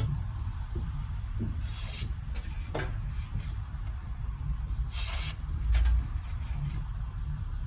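Steel knife blade scraping on a whetstone in a few separate hissy strokes, over a low steady rumble.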